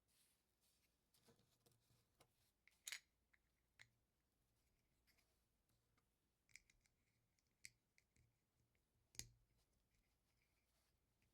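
LEGO bricks being fitted and snapped together by hand: faint, scattered plastic clicks, with two sharper snaps about 3 seconds in and about 9 seconds in.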